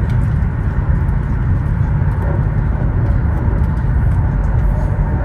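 Chinese high-speed bullet train running at about 346 km/h, heard from inside the carriage: a steady noise, heaviest in the low end.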